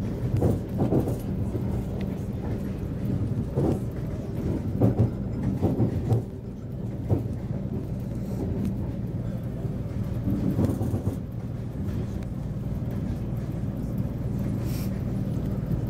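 Train running: a steady low rumble and hum with irregular knocks and clunks scattered through it.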